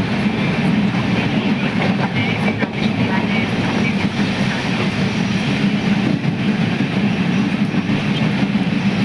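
Heavy monsoon rain pouring down steadily, a loud, even rush with no let-up.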